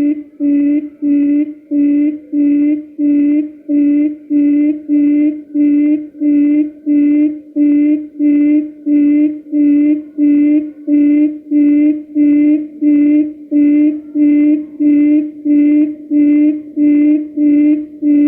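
Quail lure call used for trapping: a low, steady hooting note repeated evenly about twice a second, with no change in pace or pitch.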